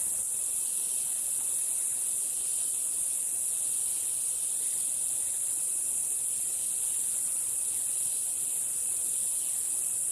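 Rainforest insect chorus: a steady, unbroken high-pitched shrill.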